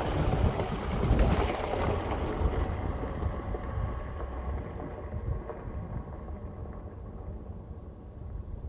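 Four-wheel drive splashing through water at a creek crossing, with a loud rushing wash for the first two seconds or so. It fades to a low rumble as the vehicle drives on.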